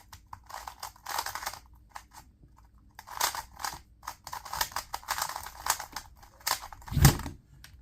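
A 2x2 speed cube being turned rapidly by hand: bursts of quick plastic clicking and clacking, with a heavier thump about seven seconds in.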